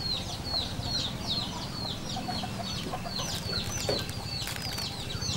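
Birds chirping over and over: short, high notes that each slide downward, several a second.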